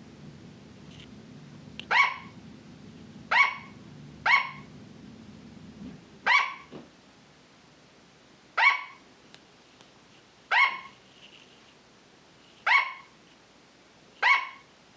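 Sugar glider barking: eight short, sharp barks at an uneven pace, one every one to two seconds.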